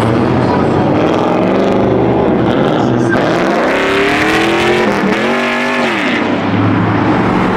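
Vehicle engine revving: its pitch climbs about midway, then rises and drops again as it is revved and eased off.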